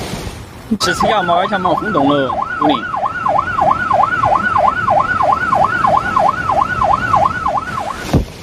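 Emergency vehicle siren in a fast yelp, its pitch swinging up and down about three times a second. It cuts in suddenly about a second in and stops just before the end.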